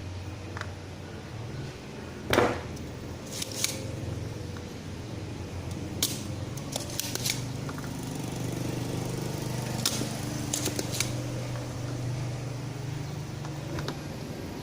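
Scattered clicks and taps of hand tools on a circuit board as a filter capacitor is desoldered and pulled out, the loudest click about two seconds in, over a steady low hum.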